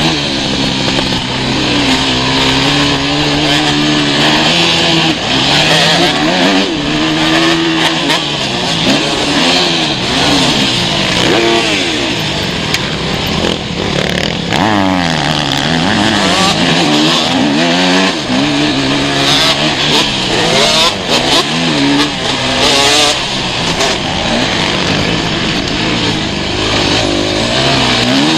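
Motocross bike engines revving hard, their pitch climbing and dropping over and over as riders accelerate, shift and back off around the track.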